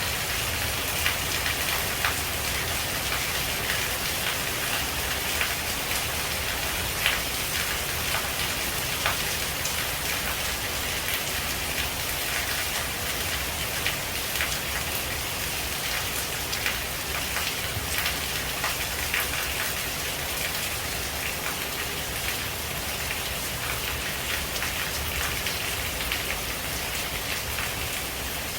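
Steady rain falling on leaves: an even hiss with many separate drops tapping through it.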